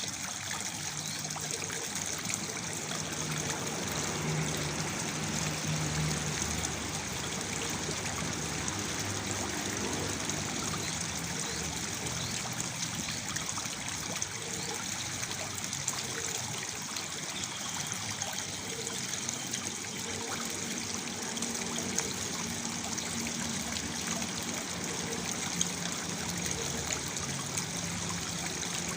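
Water from a small waterfall splashing and trickling steadily into a pool, with low gurgling notes here and there.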